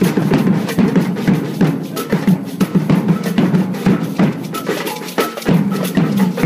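Drums played in a fast, dense rhythm, as from a marching drum band, with many sharp strikes throughout.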